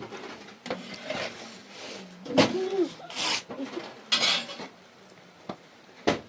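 Pots and metal utensils being handled: clattering, scraping and rubbing through the middle, then a couple of sharp knocks near the end.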